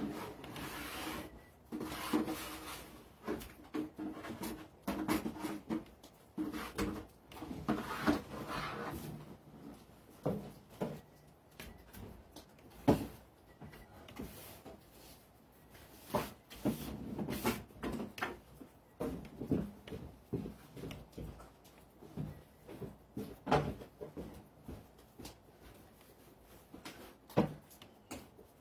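Irregular knocks, clicks and rubbing scrapes, as of things being handled and bumped, with a few sharper loud knocks.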